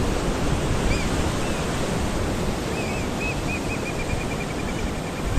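Sea surf and wind on the coast, a steady wash of noise. Over it come a few short high chirps that run into a rapid trill in the second half.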